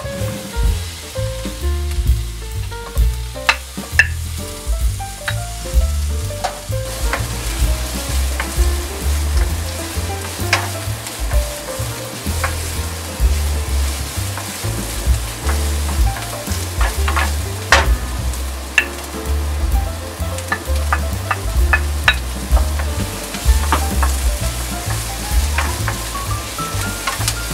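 Sliced onion and garlic sizzling in hot oil in a nonstick frying pan while a wooden spatula stirs them, knocking and scraping against the pan now and then.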